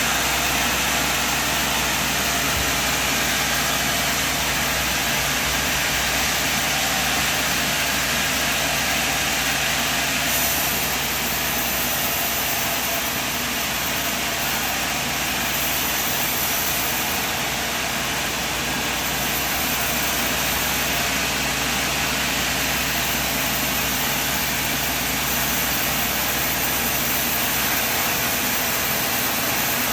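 Sawmill machine running steadily, an even engine drone with constant hiss and no change in level.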